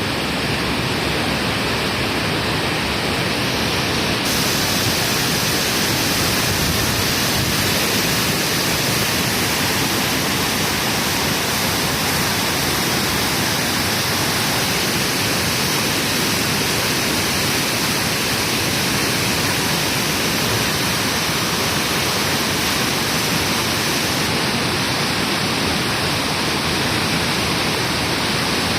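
Indus River floodwater rushing through the barrage in a loud, steady roar of torrential water.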